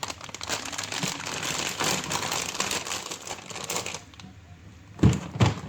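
Plastic packets crinkling as they are handled for about four seconds, then two dull thumps close together near the end.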